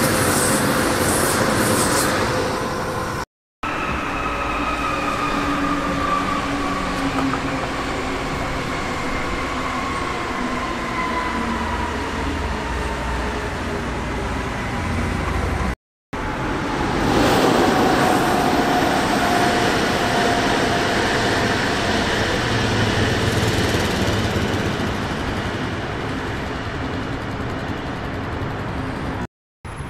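Electric trains running through a station, heard in three separate passages cut abruptly one after another. The traction motors give off a whine that falls slowly in pitch over rolling and rumbling noise.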